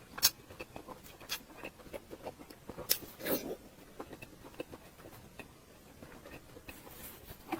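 Close-miked eating sounds: chewing and wet mouth clicks, with irregular sharp clicks. The loudest come about a quarter second in and around three seconds in.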